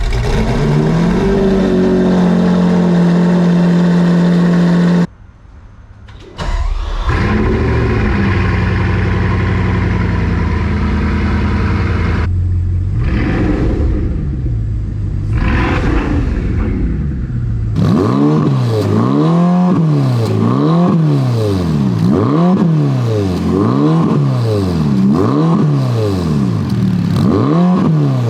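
Performance car engines revving in a series of short clips: first an engine held at high revs, then after a brief break more revving, and in the last part an engine blipped up and down about once a second, over and over.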